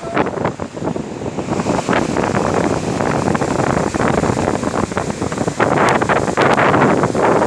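Strong wind buffeting the microphone: a loud, uneven rushing noise that gets louder about two-thirds of the way in.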